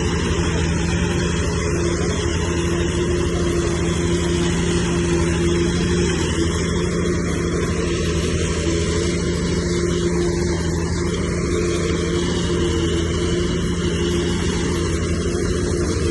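Heavy diesel engine of earthmoving machinery running steadily at a constant pace.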